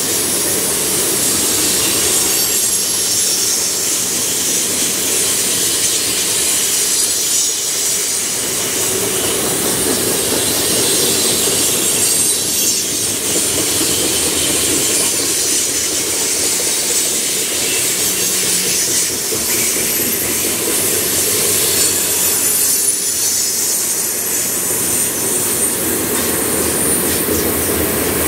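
Freight train of covered hopper cars rolling past close by: a steady rumble and clatter of steel wheels on the rails, with a thin high squeal from the wheels.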